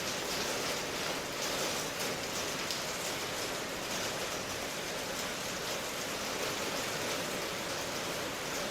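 Steady rainfall, an even hiss with faint patter of drops.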